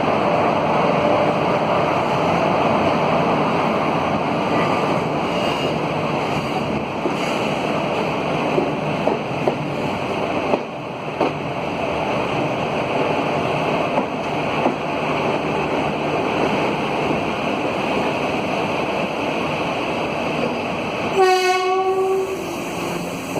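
Passenger train running steadily along the rails, with a few sharp wheel clicks. Near the end, the WAP4 electric locomotive's horn sounds once for about a second.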